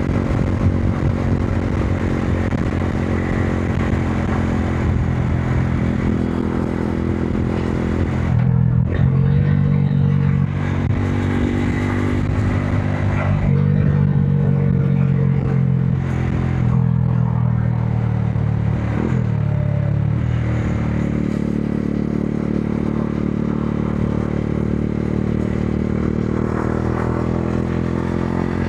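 Modenas Dominar 400's single-cylinder engine running as the motorcycle is ridden, a steady engine note with several stretches of opened throttle and pitch changes between about 8 and 20 seconds in.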